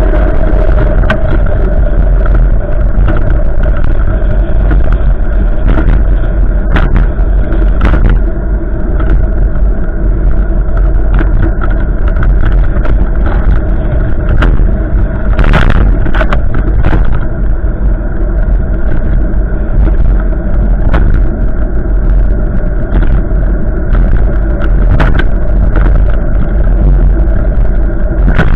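Strong gusting wind blowing over the microphone: a loud, steady rumble with scattered sharp clicks.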